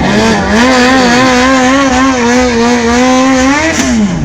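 Drag-racing sport motorcycle engine revved hard and held at a high, nearly steady pitch with a slight wobble for about three and a half seconds, then dropping off near the end.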